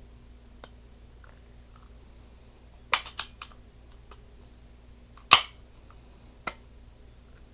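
Parts of a Tippmann 98 Custom paintball marker clicking and knocking as they are handled and pressed together during assembly: a quick run of three clicks about three seconds in, a sharper, louder click a little past five seconds, and a smaller one about a second later.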